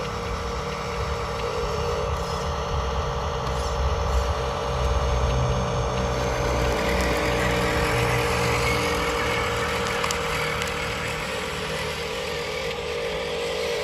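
Remote-control toy construction vehicles running, a steady mechanical hum with a low rumble that grows louder in the middle.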